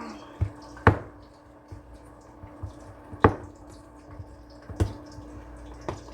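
Hot palm oil in a cooking pot crackling, with a few sharp, widely spaced pops, about four in six seconds, and a steady low hum underneath.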